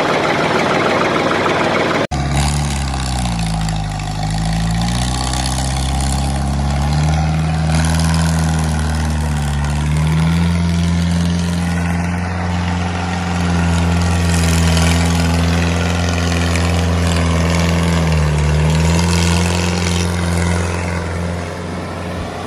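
An engine running steadily, its speed sagging and recovering twice, once a few seconds in and again near the end, after an abrupt cut about two seconds in.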